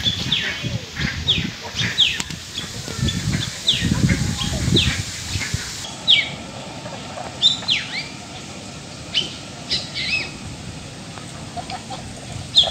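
Birds chirping: short high calls that slide quickly downward, repeated about once a second. An irregular low rumble runs under the calls for the first half and stops about halfway through.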